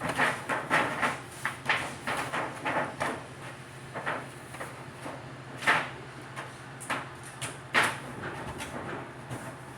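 Irregular knocks, clunks and rattles of hands-on sheet-metal work, with the louder strikes near six and eight seconds in, over a steady low hum.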